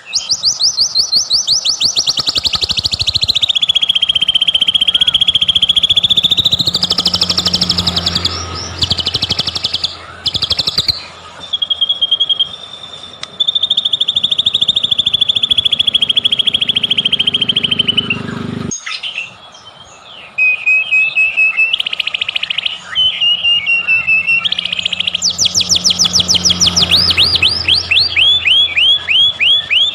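White-rumped shama (murai batu) singing a loud, continuous song of rapid trills, fast repeated notes and long held whistled phrases, played as a pancingan lure track to provoke other shamas into singing. The song cuts off abruptly about two-thirds of the way through and picks up again a second or two later.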